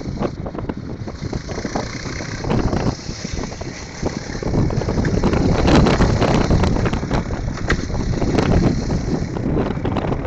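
Motorcycle ride heard from on board: wind buffeting the microphone over the engine and road noise, growing louder about halfway through.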